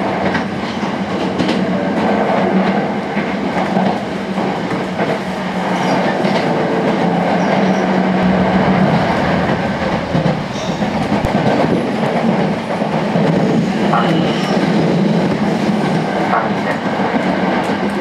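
Steady running noise of a Sanyo Electric Railway 5000 series electric train at speed, heard from inside a trailer car: wheels rolling on the rails over a continuous rumble and low hum.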